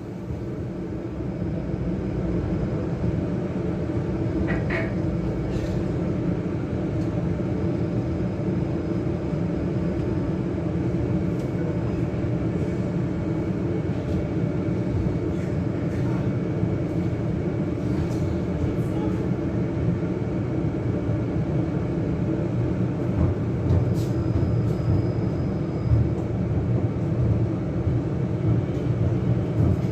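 Tatra KT3R articulated tram running on rails: a steady rumble of wheels on track and running gear, growing louder over the first couple of seconds, with a few short clicks and a faint high whine that comes and goes.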